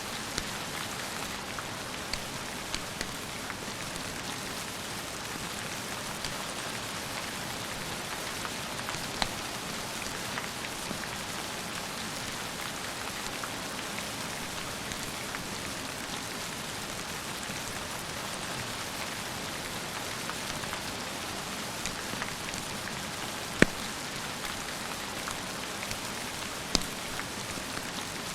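Steady rain falling, an even hiss with scattered sharp clicks of drops or crackles; two louder snaps stand out near the end.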